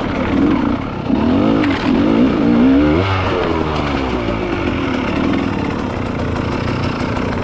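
Enduro dirt-bike engine revving up and down several times in quick succession, as on a hard trail climb, then running at steadier revs.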